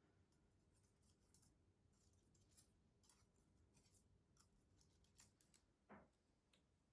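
Near silence with faint, scattered light clicks and ticks, one slightly stronger about six seconds in.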